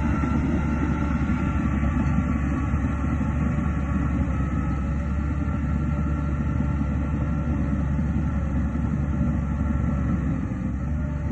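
Heavy diesel engine of a Shantui DH17C2 crawler bulldozer running steadily under working load: a deep, even drone with faint steady tones above it, dipping slightly near the end.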